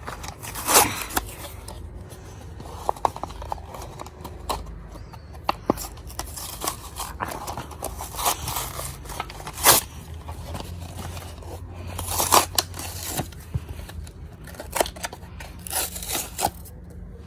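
Plastic blister and cardboard backing of a Hot Wheels toy-car package being cut and torn open: a run of crinkles, scrapes and sharp snaps.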